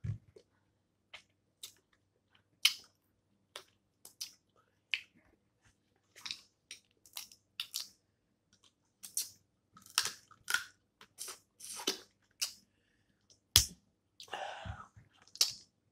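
Snow crab legs being eaten close to the microphone: irregular sharp cracks and snaps of the shell, with chewing in between. The loudest crack comes near the end, followed by a short stretch of rustling and chewing.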